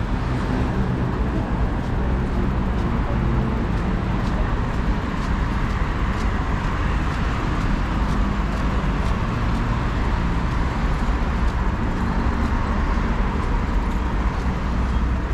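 Steady city street traffic noise: a low engine rumble under an even hiss of passing vehicles.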